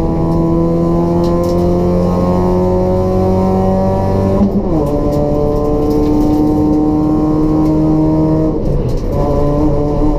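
Race-built Toyota Etios 1.5-litre petrol engine with a free-flow exhaust, running hard under acceleration. Its pitch climbs steadily, drops sharply at an upshift about halfway through, then climbs again, with a brief break near the end.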